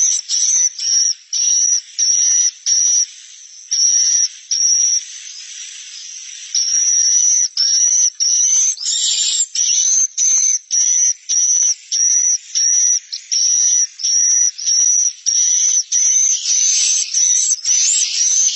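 Swiftlet twittering calls: short high chirps repeating about twice a second, with a quieter, hissier stretch about four to six seconds in. This is a swiftlet 'roosting' (suara inap) lure sound, used to draw swiftlets to settle in a nesting house.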